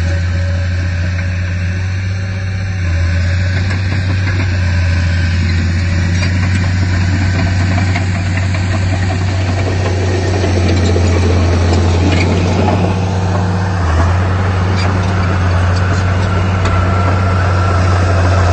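Heavy diesel engine running steadily with a deep hum. From about ten seconds in, light metallic clanking and squeaks are added.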